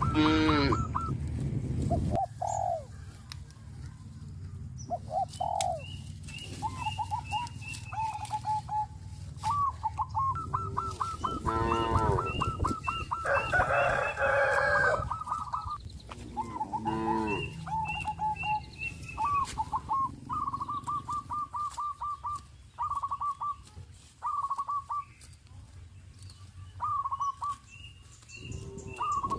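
Farmyard poultry and other birds calling: runs of short, rapidly repeated chirps and clucks, with a few longer calls including what sounds like a rooster crowing about the middle. A cow starts to moo right at the end.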